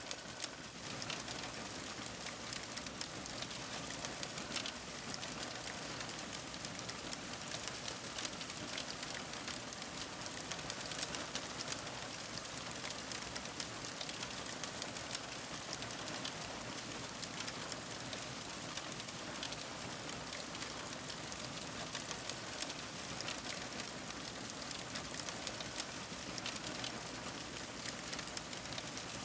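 Fire crackling: a steady hiss dense with many small crackles and pops.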